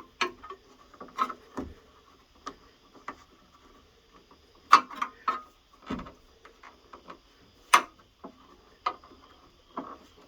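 Irregular clicks and taps of a rubber window gasket being worked into a truck door's window channel with tools and fingers, with the sharpest knocks about five and eight seconds in.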